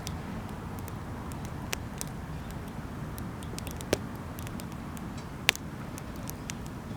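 Wood campfire burning with scattered small crackles and two sharper pops, about four and five and a half seconds in, over a steady low rumble.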